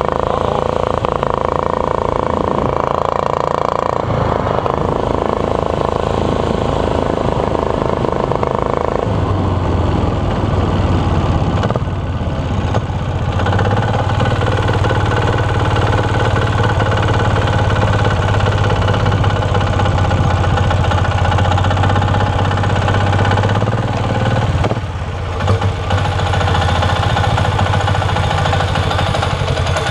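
12 hp air-cooled diesel engine on a minibike running under way through an empty, unpacked muffler. About nine seconds in its sound changes to a deeper, heavier note, and it drops back briefly near the end.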